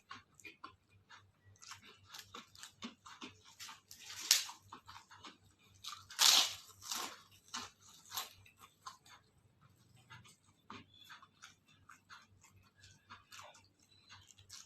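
A person chewing and crunching crisp food close to the microphone, with a run of crackly bites. The loudest crunches come about four and six seconds in, and the chewing grows softer after that.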